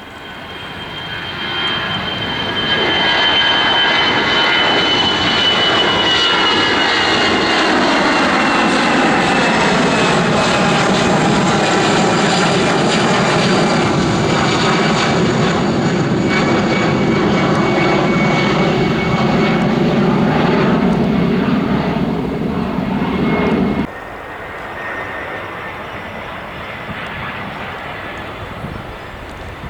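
Jet airliner passing close by, its engines loud with a high whine that slides slowly down in pitch. About three-quarters of the way through the sound cuts off suddenly to a quieter, distant aircraft noise.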